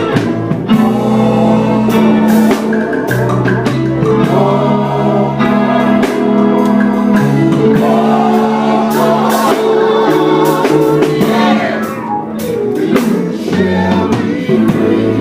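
Live gospel music: a group singing with instrumental backing and a drum beat.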